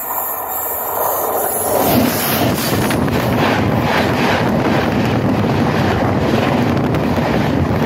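Indian Railways train, led by an electric locomotive, rolling directly over a camera lying between the rails: a loud rush of wheel rumble and air that swells over the first two seconds and then holds, with a faint repeated clatter of the wheels.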